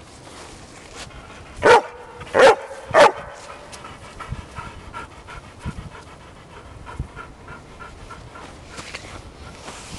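Airedale terrier barking three times in quick succession, then panting rhythmically.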